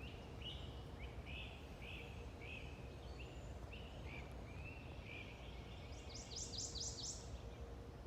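A songbird singing: a run of short slurred notes, about two a second, then near the end a quick series of five steep downward notes starting higher up. Under it is a low, steady rumble.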